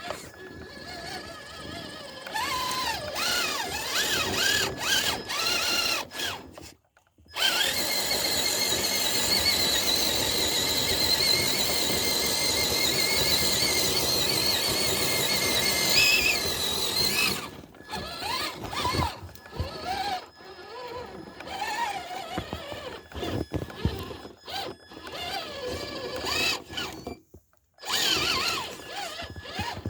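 Electric motor and gear drive of a radio-controlled scale crawler truck whining, revving up and down in short pulls, then held at a steady high whine for about ten seconds before more short revs. The sound cuts out briefly twice.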